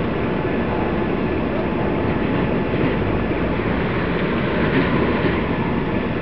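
Steady, dense rumble of a running vehicle, even in level throughout, with a faint steady hum above it.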